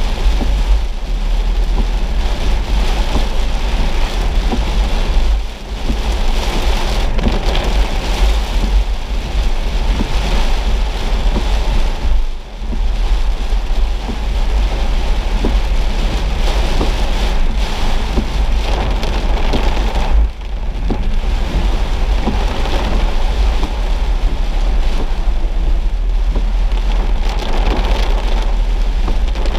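Heavy rain pelting a moving car's roof and windshield, heard from inside the car, over a steady low rumble of engine and road. The level dips briefly three times.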